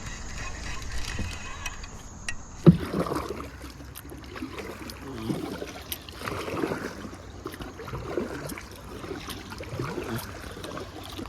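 Water sloshing and splashing around a kayak as it is moved, with one sharp knock about a quarter of the way in. Insects chirp steadily at the start.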